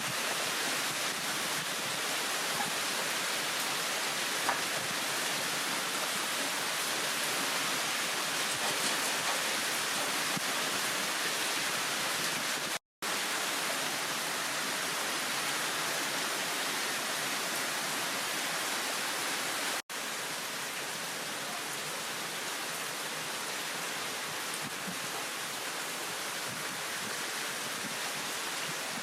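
Heavy downpour: rain falling as a steady, even hiss, broken by two brief silent gaps where the recording cuts.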